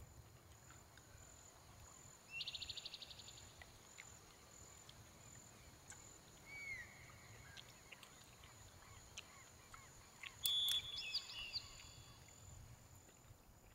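Songbirds calling: a fast trill of repeated high notes about two seconds in, a short slurred call around six seconds, and a louder burst of whistled calls with one held note around ten and a half seconds.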